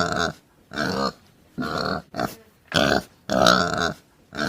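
Domestic pig grunting, a steady string of short, rough grunts about every half second.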